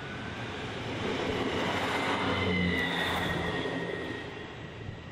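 Another passenger train passing close by on the adjacent track. Its rumble and wheel noise build to a peak about two to three seconds in and then fade, with a thin high whine near the peak.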